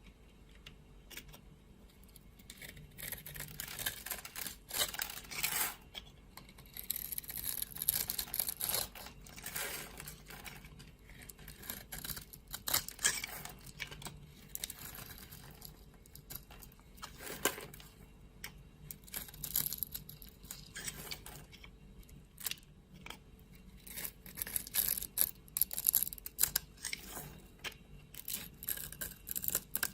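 Knife cutting into dry soap: crisp scraping and crackling strokes with many small clicks, coming in clusters every second or two with brief pauses between.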